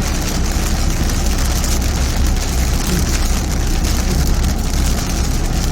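Heavy rain drumming steadily on a car's roof, heard from inside the cabin, over the car's steady low rumble.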